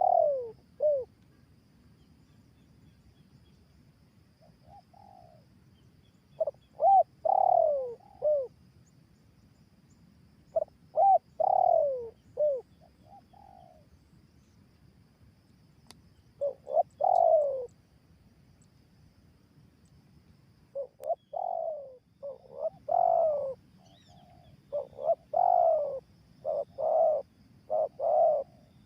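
Spotted dove cooing: short phrases of several curved, falling coos, repeated every few seconds and coming in quicker succession near the end.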